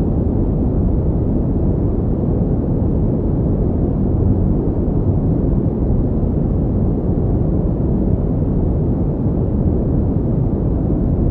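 Steady generated pink noise: an even, unbroken rushing hiss weighted toward the deep end, with no changes in level.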